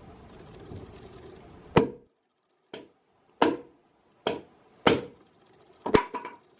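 A hammer striking a block of wood six times, about one blow a second, driving a freezer-chilled bushing into place. The last blow is the loudest and is followed by a couple of quick rebound taps.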